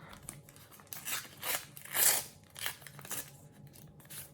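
Stickers and their foil sticker packet rustling and crinkling as they are handled, in a run of short bursts, loudest about two seconds in.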